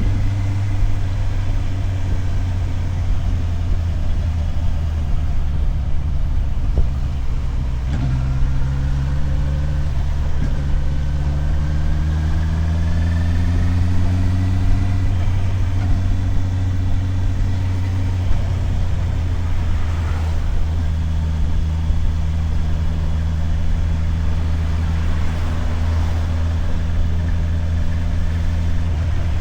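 Motorcycle engine running at low revs, its note rising as it accelerates from about eight seconds in, then settling back to a steady pitch for the rest of the ride.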